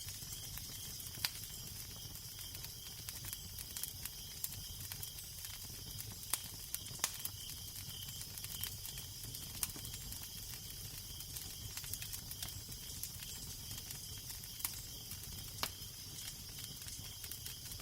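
Crackling fire: irregular sharp pops and snaps over a steady hiss, with a low wind rumble underneath.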